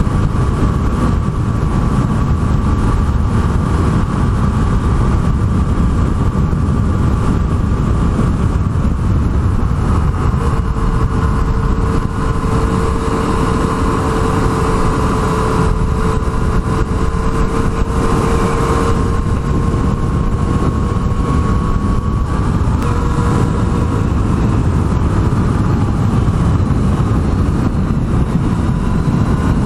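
Yamaha MT-09's three-cylinder engine running at a steady cruise on the open road, its note drifting slowly up and down in pitch, under a heavy rush of wind and road noise.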